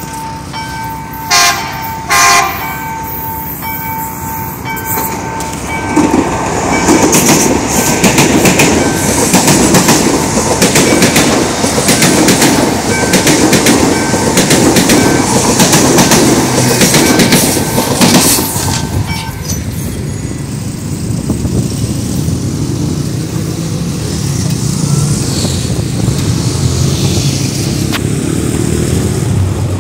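Level-crossing warning signal pulsing steadily while a passenger train sounds two short horn blasts about a second and a half in. The train then passes the crossing with a loud rattle of wheels over the rails, from about 6 s to about 19 s. At about 19 s the warning signal stops, and the train's rumble fades away.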